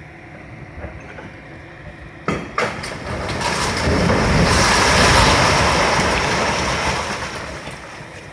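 Demolition of a railway station building: two sharp bangs, then a heavy clattering rumble that swells and fades over about five seconds.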